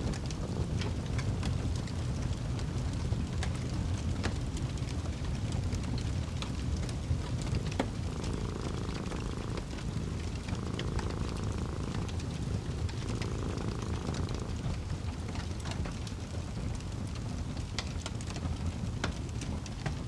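Wood fire crackling in a fireplace: irregular sharp pops and snaps over a low steady rumble. From about eight seconds in, a cat purrs for three breaths.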